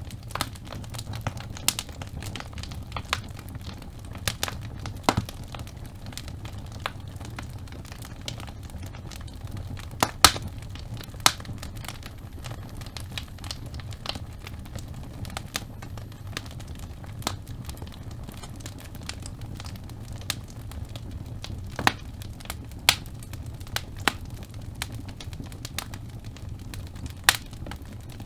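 Wood fire burning in a fireplace: a steady low rumble of flames with irregular crackles and sharp pops from the burning logs, a few louder snaps scattered through.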